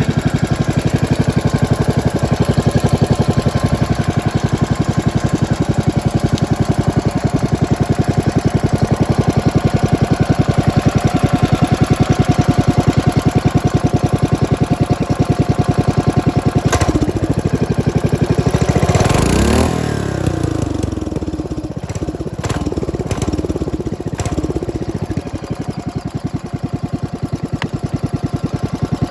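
Modified Briggs & Stratton Model 31 500cc single-cylinder engine, ungoverned, with a flat-slide carburetor and dual exhaust, running steadily. About two-thirds of the way through it is revved up and back down, then settles to a slightly quieter idle.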